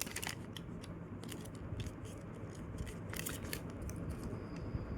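A sheet of paper being folded and creased by hand: scattered short crinkles and crackles of the paper.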